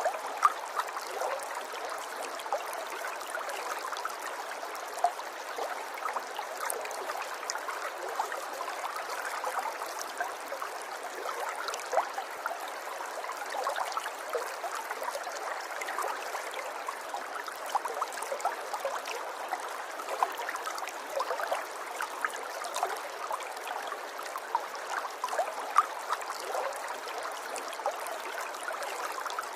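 River water running and trickling over stones, a steady gurgle full of small splashes with now and then a sharper splash.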